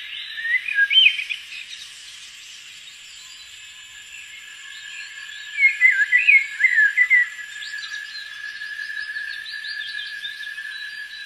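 Forest birds chirping and singing in quick bursts, about a second in and again through the middle, over a steady high-pitched insect drone.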